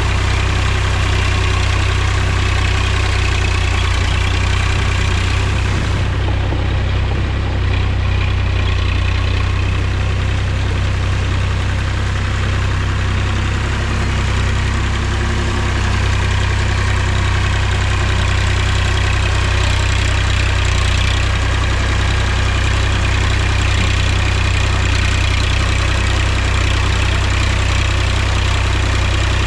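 Mahindra tractor's diesel engine running steadily, with a strong, even low hum.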